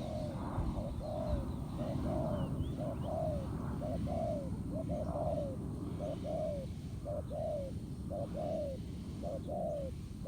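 Spotted dove cooing in a rapid run of short arched coos, often in pairs, about two a second: the bowing display coo of a male in a contest with a rival. Faint chirps of small birds are heard at times over low background noise.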